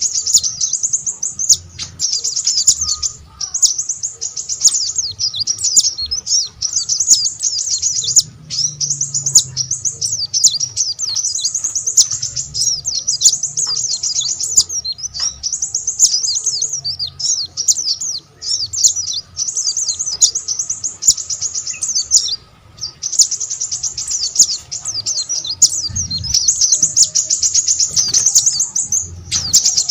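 Small songbird singing a fast, high, continuous twittering song in long phrases, with only brief breaks, one of them about two thirds of the way in.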